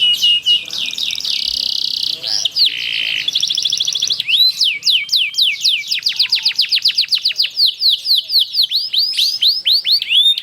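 Domestic canary singing a long rolling song: a fast buzzy trill, a brief lower buzz, then a long run of rapidly repeated sweeping notes at about seven a second.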